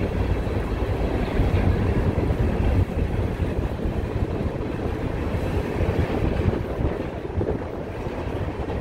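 Open-top hopper cars of a freight train rolling past on the track: a steady, loud, low rumble of steel wheels on rail.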